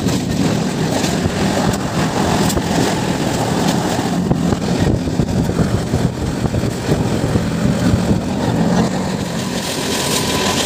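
Passenger train running at speed, heard from inside the coach: a loud, steady rumble and rush of wheels on rails, with occasional faint clacks.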